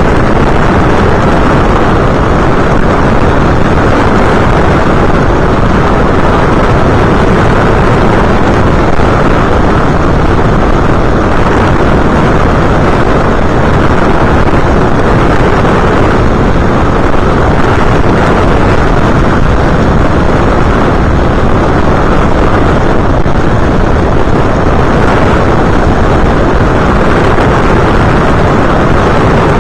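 Steady loud rush of airflow and motor-propeller noise on an FPV aircraft's onboard camera microphone in flight, unchanging throughout.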